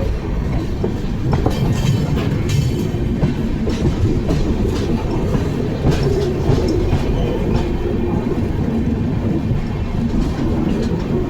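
Amrit Bharat Express passenger train running along the track: a steady low rumble with the clickety-clack of the wheels over the rail joints.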